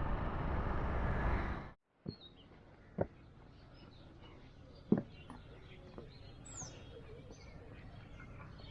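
Steady wind and road noise from the motorcycle ride, which stops suddenly after about a second and a half. Then quiet outdoor ambience follows, with a few faint knocks and birds chirping, two short downward-sweeping chirps in the second half.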